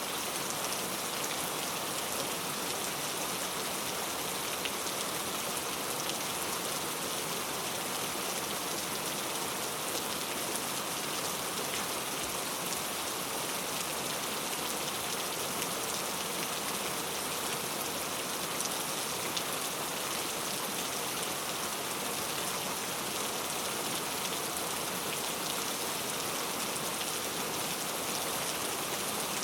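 Heavy rain falling steadily on mango tree leaves, a dense, even patter of drops.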